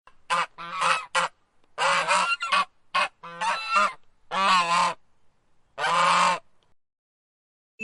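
A goose honking: a series of separate honks, some short and some longer, at irregular spacing.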